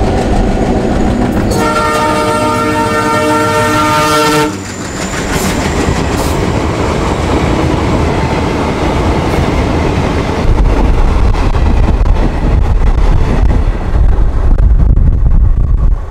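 Indian Railways diesel locomotive sounding its multi-tone horn for about three seconds as it comes past on the adjacent track, followed by its coaches rolling by close at hand, wheels running over the rails, the rumble getting heavier about ten seconds in.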